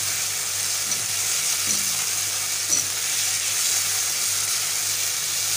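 Chicken, tomato and capsicum sizzling in oil in a wok while a silicone spatula stirs them, with a brief knock of the spatula near the middle.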